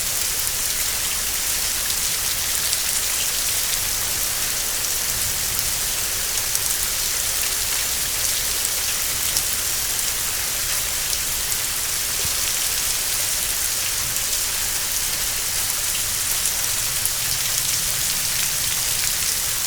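Heavy rain pouring down steadily, a dense hiss of countless drops striking surfaces.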